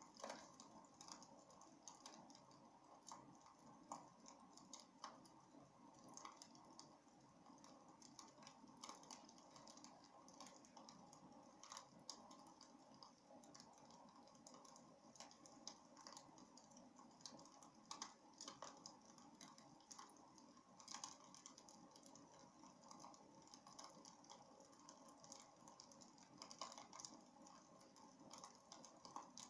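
Faint crackling of a wood fire in a fireplace: irregular small pops and snaps over a steady low hiss.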